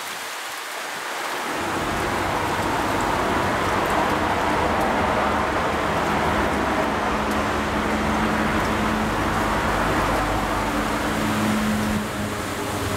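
Steady rain. About a second and a half in, a low, even rumble swells in and holds, with a steady hum growing stronger near the end.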